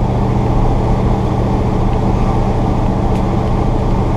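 A 1986 Chevy pickup's 454 big-block V8 running steadily as the truck drives, with a constant low engine note and road noise and no change in revs.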